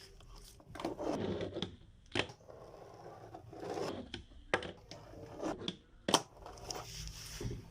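Fingerboard and its small trucks being handled on a hard surface: irregular scraping and rubbing, with a few sharp clicks and knocks.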